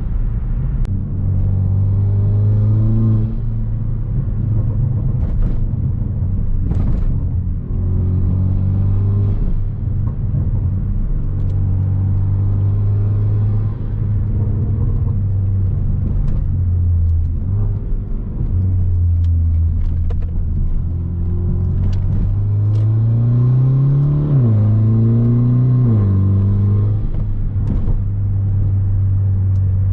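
2017 Hyundai Veloster Turbo's 1.6-litre turbocharged four-cylinder, straight-piped with resonator and muffler deleted, droning steadily as the car drives. Near the end the pitch climbs under acceleration and drops suddenly at a gear change, twice in quick succession.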